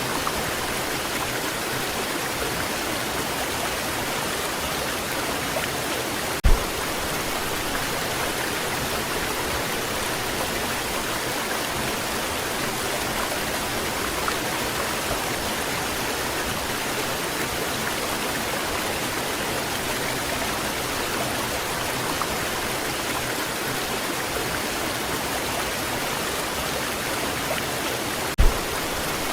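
Waterfall rushing in a steady, even roar of falling water. Two brief low thumps break in, one about six seconds in and one near the end.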